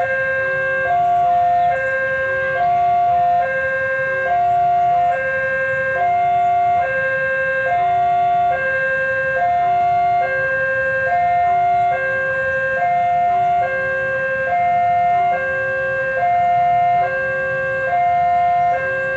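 Level-crossing warning alarm sounding while the gate is closed for an approaching train: an electronic two-tone signal that alternates steadily between a higher and a lower note, each held a little under a second.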